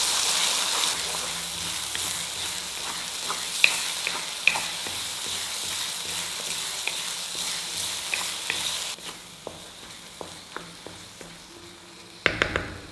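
Garlic chutney sizzling in hot oil in a stone pot as it is stirred, with scattered pops and spits. The sizzle dies down sharply about nine seconds in, and a quick run of loud sharp clicks comes near the end.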